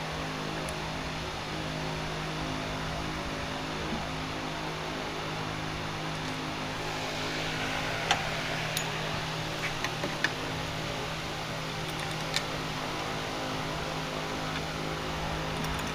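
A steady mechanical hum, like a shop fan or motor running, with a few light clicks and taps about halfway through.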